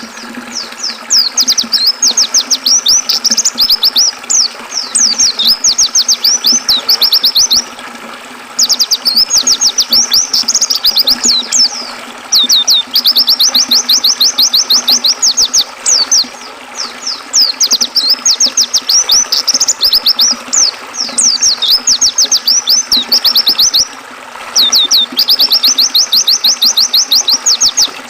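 White-eye (pleci) singing long phrases of rapid, high twittering notes, broken by short pauses, over a steady rush of flowing river water.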